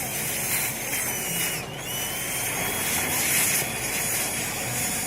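A steady, loud mechanical hiss with a faint high whine running through it. It drops out briefly about one and a half seconds in, then carries on.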